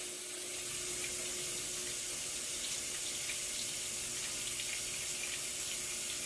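Maytag MVWC465HWO top-load washer filling with water at the start of its rinse cycle: a steady rush of water into the tub with a faint steady hum.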